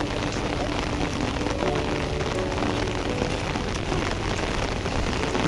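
Steady rain falling on an umbrella.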